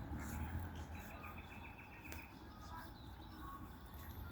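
Bird calling outdoors: a quick run of about ten short, high, evenly spaced notes a second in, with a few faint chirps, over a low rumble that is strongest at the start.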